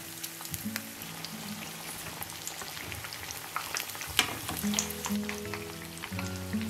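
Oil sizzling and crackling around breaded potato croquettes shallow-frying in a pan, with many small pops and one sharper crack about four seconds in.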